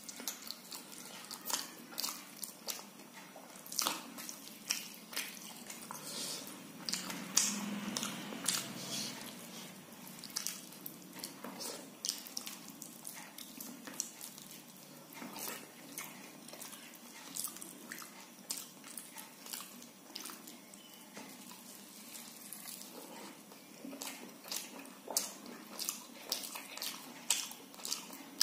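Close-up wet chewing and lip-smacking of a person eating soft khichdi and fried fish with his hand, with many irregular sticky clicks of mouth and fingers.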